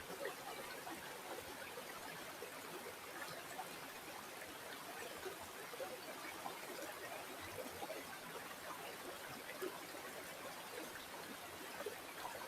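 Stream of water flowing steadily, a continuous babbling and trickling with no let-up.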